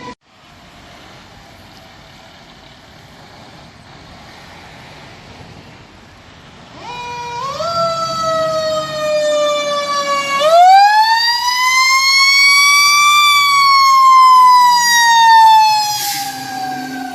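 Fire apparatus siren: after several seconds of low road noise it comes in climbing in pitch, then about ten seconds in it swoops up sharply into a long wail that rises slowly and glides back down.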